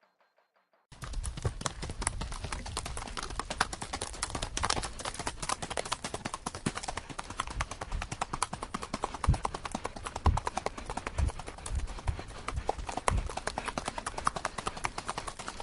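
Horse hooves clip-clopping in a quick, irregular run of knocks, starting about a second in.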